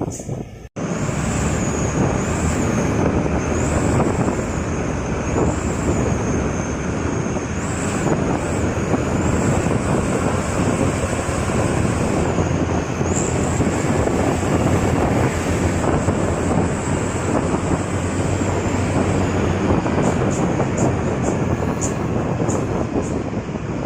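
Motor vehicle driving on a highway: steady engine, tyre and road noise with a wavering high whine over it. The sound cuts out abruptly for an instant under a second in, then runs on evenly.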